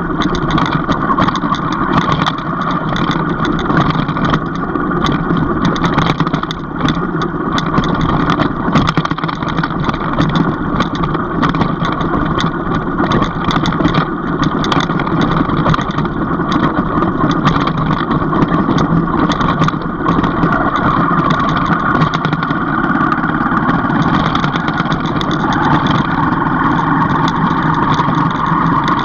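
Motor vehicle engine running steadily while travelling on a rough, broken-up dirt road, with many short rattles and knocks.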